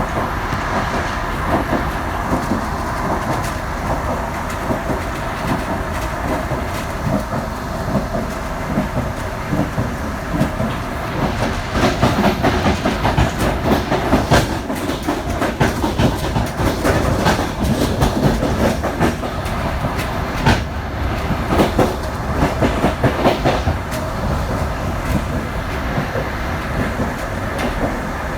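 Passenger train rolling along the track: a steady rumble with the wheels clacking over rail joints, the clacking thickest through the middle stretch.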